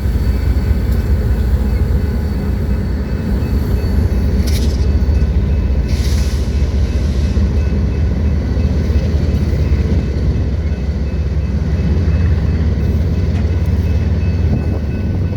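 Manifest freight train rolling past, a loud, steady low rumble throughout with faint high ringing tones above it.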